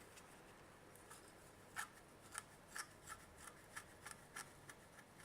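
Small clicks and ticks of the opened Micronta digital multimeter's plastic case and circuit board being handled, a string of short clicks starting a bit over a second in.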